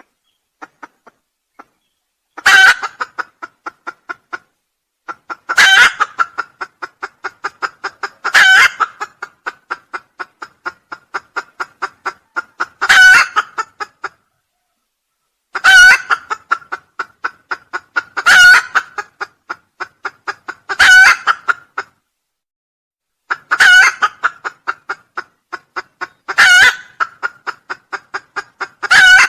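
Junglefowl crowing again and again, a loud sharp call about every three seconds, each one trailing off into a run of quick short pulses.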